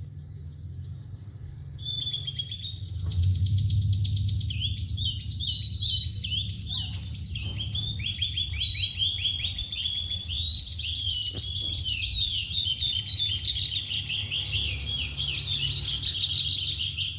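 Oriental skylark singing a long unbroken song: it opens with a steady held whistle for under two seconds, then runs into a fast, varied string of chirps and trills. A low hum runs underneath.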